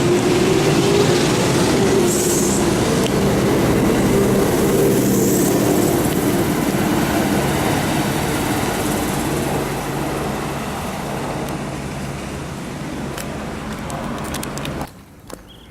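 Kintetsu electric train running through the station, a loud rumble with a steady low hum that slowly fades, then the sound cuts off suddenly near the end.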